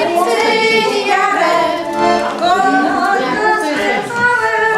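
Women's voices singing a song together, with long held notes.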